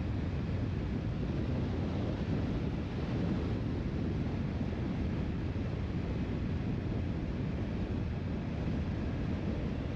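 Steady wind rush on the microphone while riding a motorcycle, with the engine running underneath.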